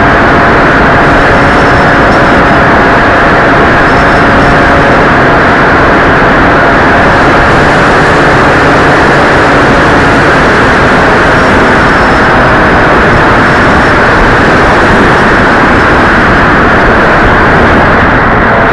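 Loud, steady rushing noise that nearly overloads the microphone, the wind and airflow noise of an RC plane flight, with a few faint steady motor tones underneath.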